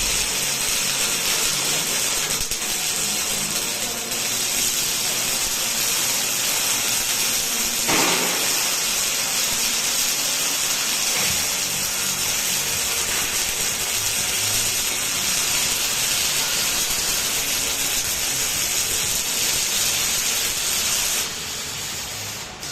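MIG welding arc from a robotic welding cell: a steady, crackling hiss that keeps on without a break, with one brief louder snap about eight seconds in, and that drops away shortly before the end.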